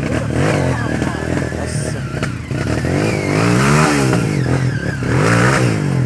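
Dirt-bike engine revving up and down in repeated swells as the throttle is opened and closed, with two clear rises and falls in the second half.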